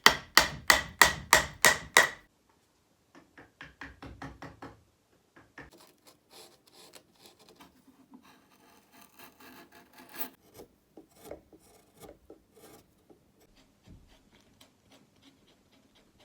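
Wood carving being worked with a hand rasp: about eight loud, rhythmic strokes, roughly three a second, in the first two seconds, then quieter, uneven scraping strokes on the wood.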